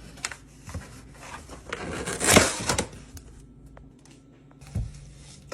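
Unboxing handling noise: cardboard box and packaging being opened and moved, with scattered clicks and knocks, a louder rustle about two seconds in and a dull thud near the end.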